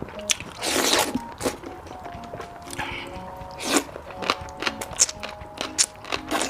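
Crunchy bites and chewing of fried chicken, with loud crunches about a second in and again near four seconds and smaller crackles between, over soft background music with steady held notes.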